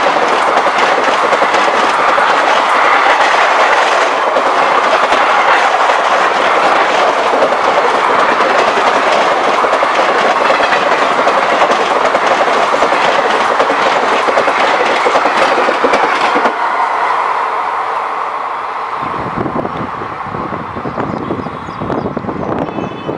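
Passenger coaches of an express train running past at speed close by, their wheels clattering and crackling over the track in a steady rush of rolling noise. About sixteen seconds in the noise falls away as the train moves off, and a low rumble follows near the end.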